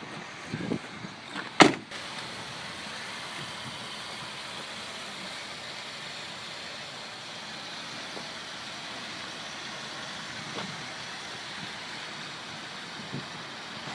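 2004 Buick Rendezvous with its 3.4-litre V6 running at idle, heard as a steady even hiss. There is one sharp knock about a second and a half in.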